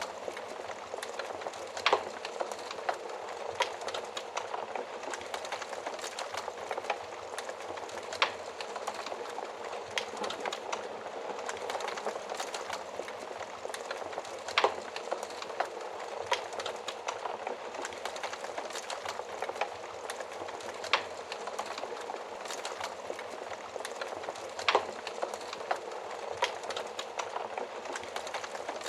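Wood fire burning in an oven firebox: a steady crackling hiss with sharp, louder pops every few seconds.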